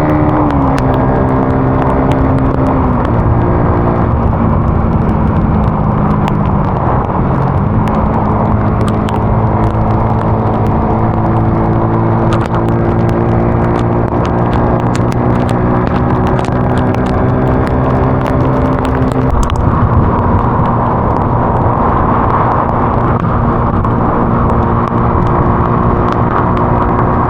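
Vehicle engine running at road speed over steady road and wind noise. Its pitch drops a few times and picks up again after about seven seconds and near twenty seconds, as the vehicle slows and accelerates.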